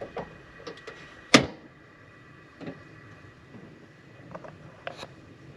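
Kitchen handling sounds: several light knocks and clicks, with one sharp clack about a second and a half in, over a faint steady hum.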